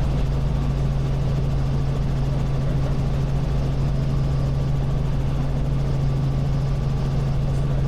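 Robinson R44 Raven I helicopter in cruise flight: a steady, unchanging drone of engine and rotors with a strong low hum.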